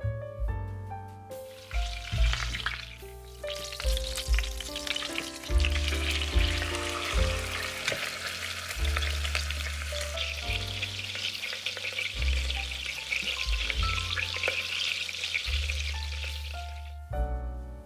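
Food sizzling as it fries in a hot pan. The sizzle starts about a second and a half in and stops shortly before the end, over background music with a bass line.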